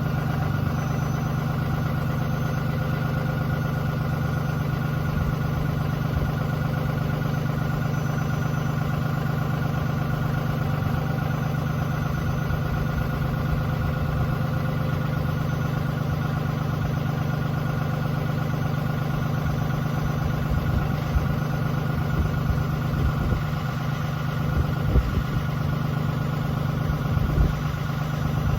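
A 2017 Ram 2500's 6.7 L Cummins turbo-diesel idling steadily on its factory exhaust, still cold a minute after a cold start at 1 degree. A few louder low thumps come through near the end.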